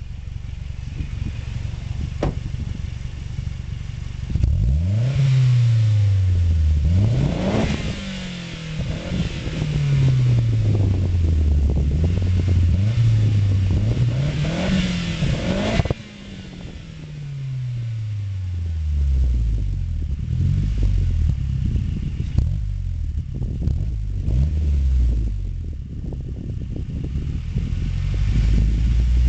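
2008 Mazdaspeed 3's turbocharged 2.3-litre four-cylinder heard through its stock exhaust. It idles for a few seconds, then is revved up and let fall back repeatedly, with a sudden drop about two-thirds of the way through before more revs. The owner calls the stock exhaust windy.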